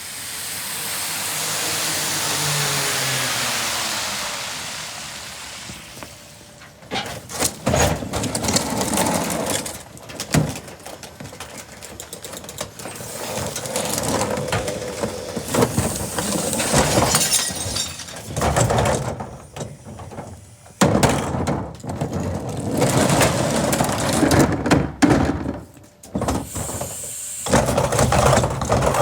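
A vehicle hisses past on a wet road, swelling and fading over about six seconds. Then a garbage truck works its load with irregular clanks, knocks and crunching of trash.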